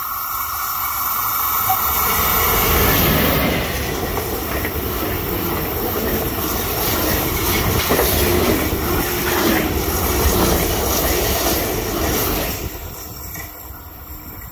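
Passenger train passing close by, its wheels clicking over the rail joints. The sound swells for the first few seconds, stays loud, then fades away in the last couple of seconds.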